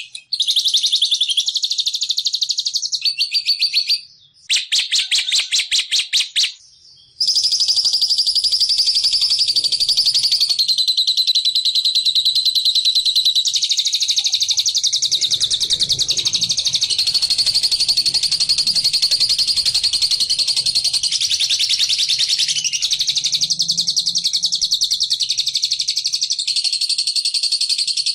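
Songbird calls used as a bird-luring recording: fast repeated chirping notes. For the first seven seconds they come in short bursts with brief gaps, then they run as one unbroken rapid trill that shifts in pitch now and then.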